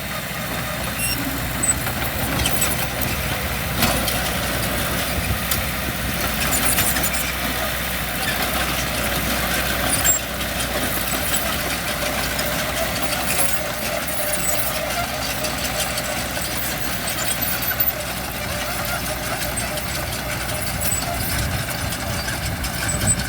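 Heavy diesel engine of earthmoving equipment running steadily, with a few sharp clanks.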